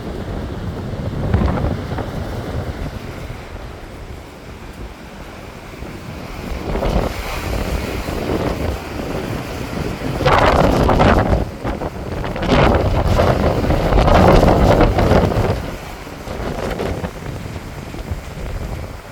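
Sea waves breaking and washing on the shore in repeated surges, the loudest coming about ten to fifteen seconds in. Wind buffets the microphone with a steady low rumble.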